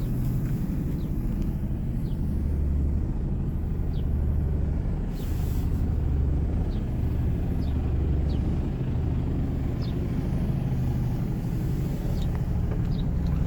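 Mercedes Actros 2545 tractor unit's 450 bhp diesel engine running at a steady idle, a low even rumble.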